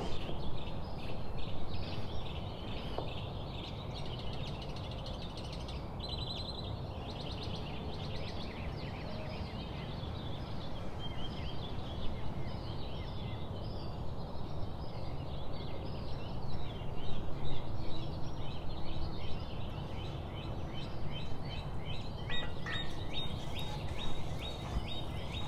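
Small birds chirping and twittering over a steady background hiss.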